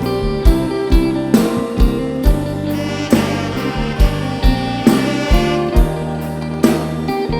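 Instrumental break of a lively Isan toei (mor lam) song: a band plays a sustained melody over a steady kick-drum beat of about two beats a second.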